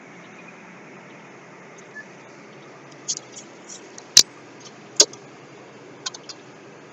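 Steady noise of a small boat under way, with a scatter of sharp clicks and knocks from about three seconds in; the two loudest knocks come about a second apart.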